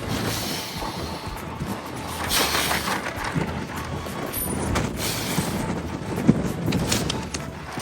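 A heavy truck running and manoeuvring slowly through a driving-skills course, with irregular outdoor noise around it.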